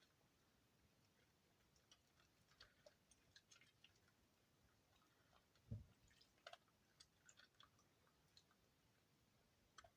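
Very faint, scattered clicks and crackles of moist soap shavings being handled and pressed together by hand, with one soft low thump a little under six seconds in.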